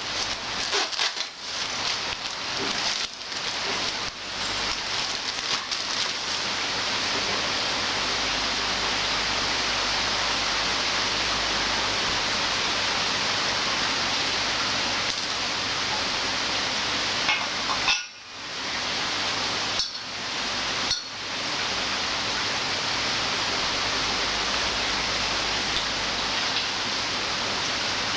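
Steady rushing hiss of air from a Mecafer 425090 50-litre air compressor, uneven in the first few seconds, then even. It cuts off sharply about two-thirds of the way through and breaks twice more shortly after.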